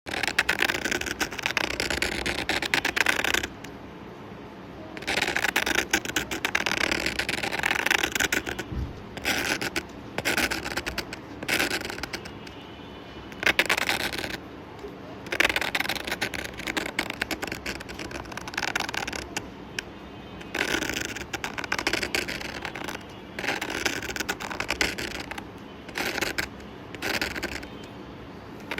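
Pencil scratching on paper in runs of quick strokes, broken by short pauses.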